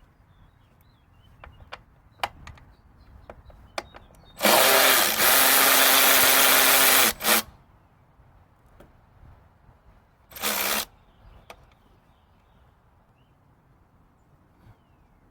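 A power tool running in one burst of about three seconds, then a second burst of about half a second, with small clicks and knocks of tools being handled around them.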